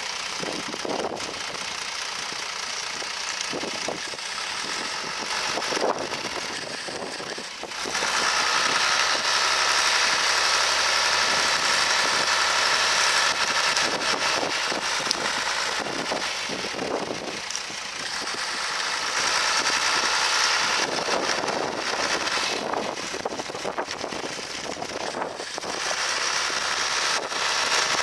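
John Deere 3350 tractor's diesel engine running as it pulls a reversible plough, growing much louder about eight seconds in, easing off later, and swelling again near the end.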